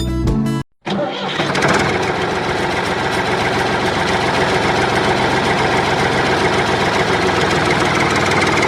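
A motor starts up and runs steadily with a fast, even rattle, just after guitar music cuts off in the first second.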